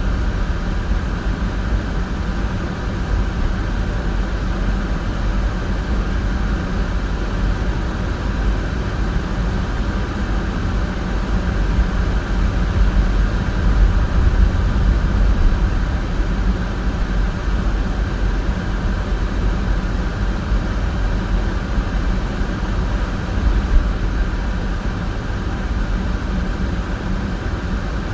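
Steady road and engine noise of a moving car, a constant low rumble with a hiss over it.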